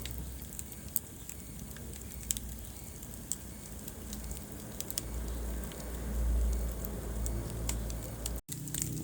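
Wood fire crackling in a fireplace: scattered sharp pops over a low, steady rumble of flames, the rumble growing louder past the middle. The sound cuts out completely for an instant near the end.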